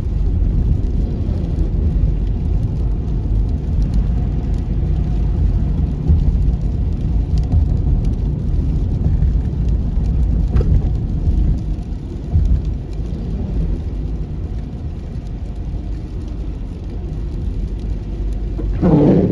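Steady low rumble of a car's engine and tyres, heard from inside the car while it drives on a snow-patched highway. The rumble eases slightly about twelve seconds in. A brief voice-like sound comes near the end.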